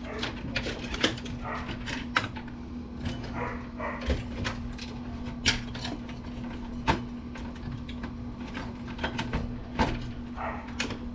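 Scattered clicks, knocks and clatter of tools and metal computer parts as a desktop PC is pulled apart, over a steady low hum, with a few short higher-pitched squeaks.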